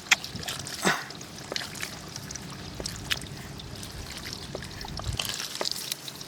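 Shallow floodwater trickling and splashing, with scattered short sharp splashes or clicks about once a second.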